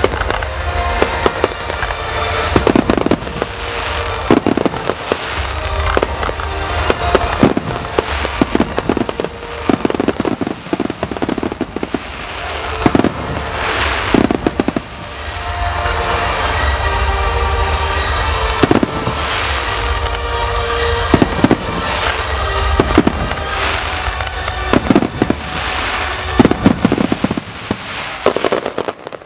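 Fireworks display: aerial shells bursting with sharp bangs one after another over a music soundtrack, the bangs coming thick and fast near the end as the finale builds, then stopping suddenly. Heard through a camera's built-in microphone.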